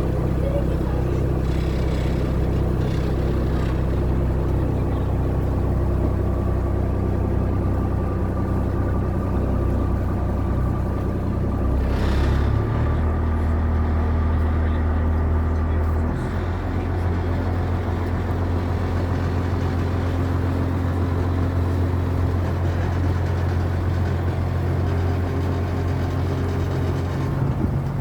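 Boat engine running steadily under way, its note shifting twice, about twelve seconds in and again a few seconds later.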